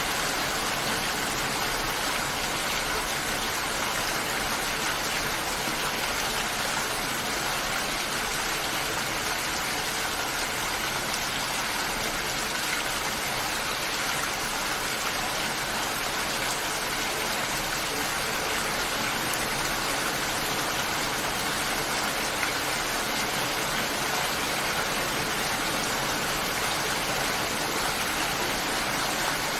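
Steady, heavy rain: an even, unbroken hiss that holds the same level throughout.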